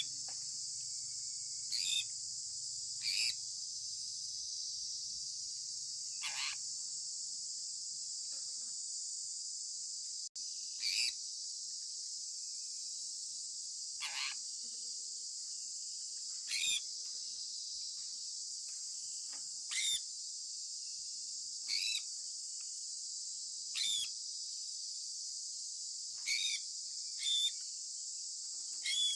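Sun conure parrot giving short chirps that fall in pitch, about a dozen of them every two to three seconds, over a steady high hiss.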